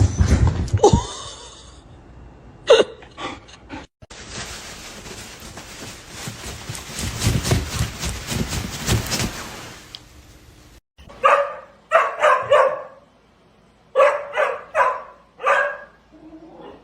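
A dog barking: two quick runs of about four sharp barks each in the last few seconds, after several seconds of steady hissing noise.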